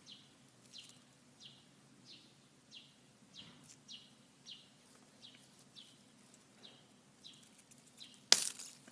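A bird calls over and over with short falling notes, a little more than one a second. About eight seconds in comes a sudden loud sharp snap: a fresh asparagus spear being broken off.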